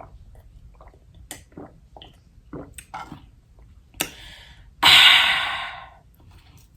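Close-miked mouth sounds of eating: soft wet chewing clicks and lip smacks, then a loud breathy exhale about five seconds in that fades away over about a second.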